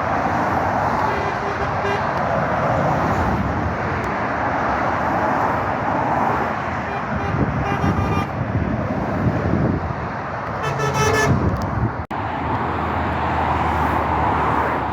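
Steady traffic noise from vehicles passing on a busy main road, with a vehicle horn sounding for about a second, roughly ten and a half seconds in.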